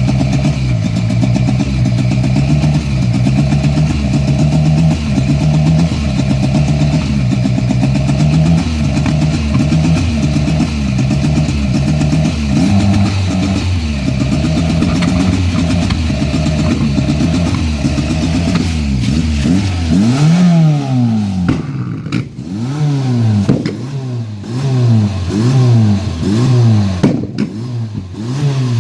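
Engine being revved over and over, at first in quick rises and falls, then from about two-thirds of the way through in separate blips about once a second. Sharp exhaust pops from an exhaust flame kit come between blips.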